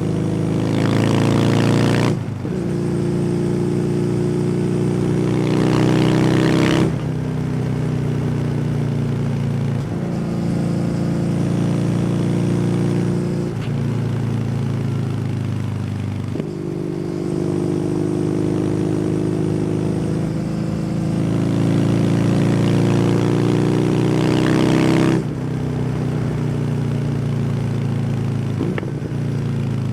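Kawasaki W800's air-cooled parallel-twin engine running through an SC Project aftermarket exhaust while riding. The engine note climbs under throttle, then jumps to a new pitch several times as gears are changed.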